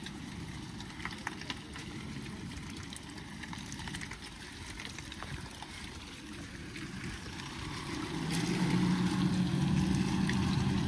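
Off-road 4x4's engine working as the vehicle crawls over a rough track, with a few light clicks. About eight seconds in, the engine revs up to a steady, louder, higher note and holds it.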